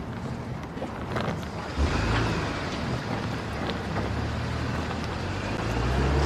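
Car engine and road noise from a car driving off, the low rumble growing louder about two seconds in.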